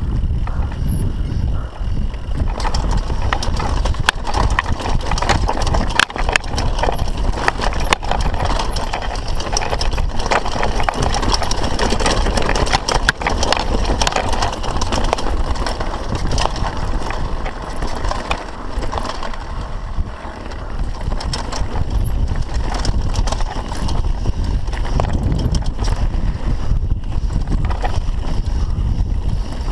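Mountain bike riding down a dirt bike-park trail: tyres on dirt and rocks, with the chain and frame rattling in constant irregular clicks and knocks over the bumps, and wind rumbling on the microphone.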